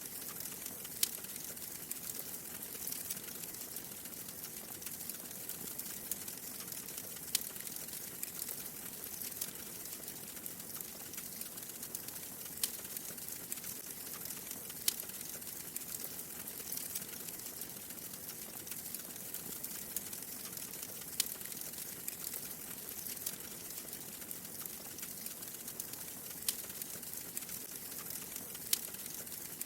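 Wood fire crackling in a fireplace: a steady soft hiss with sharp pops every few seconds at irregular intervals.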